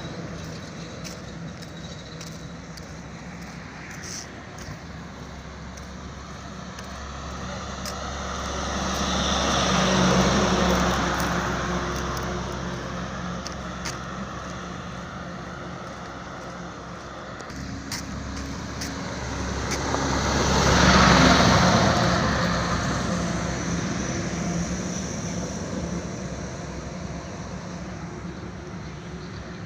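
Road traffic with two motor vehicles passing by, one about ten seconds in and another about twenty-one seconds in, each engine and tyre noise swelling as it approaches and fading as it goes away.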